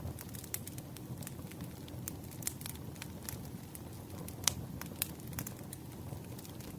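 Wood fire crackling: irregular sharp pops and snaps over a low steady rumble, with one louder pop about four and a half seconds in.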